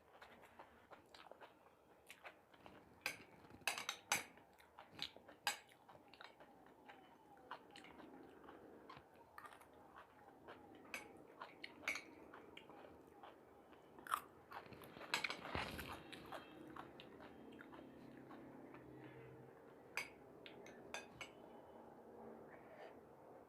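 A person eating close to the microphone: crisp, crunchy bites and chewing, with a louder crunch about fifteen seconds in.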